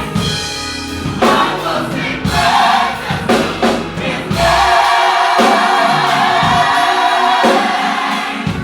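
Gospel choir singing with musical accompaniment, the voices holding long sustained notes through most of the second half.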